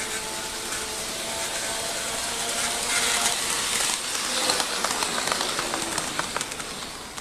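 HO scale model train running past on the track: a steady electric motor whine and gear hum with small clicks of the wheels over the rail joints. It grows louder toward the middle and fades as the train moves away.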